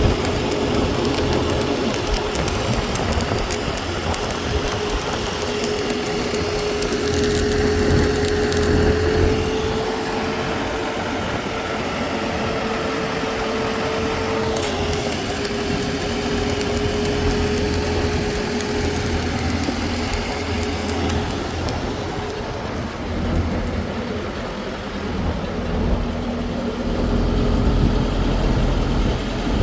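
A heavy engine running steadily, with a steady mid-pitched whine over it that fades out about two-thirds of the way through.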